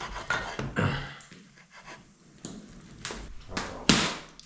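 Steak being handled in a frying pan over a wood fire: irregular scrapes and short hissing sizzles, the loudest about four seconds in.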